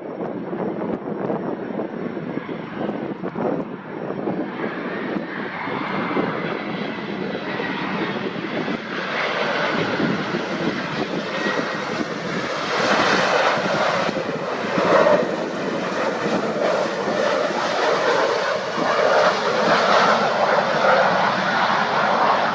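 Jet airliner's engines growing louder and brighter as it comes in to land, with a noisy rush that peaks in the second half.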